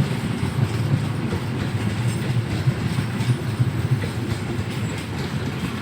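A passing train running on the rails: a steady low rumble with faint wheel clatter, easing off slightly toward the end.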